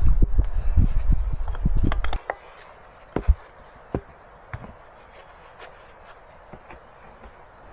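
Rapid knocks and thuds over a heavy low rumble that cut off abruptly about two seconds in, followed by a handful of single sharp knocks spaced about a second apart.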